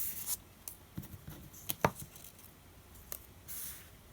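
Faint handling noise in a quiet room: a few soft clicks and two brief hissy rustles.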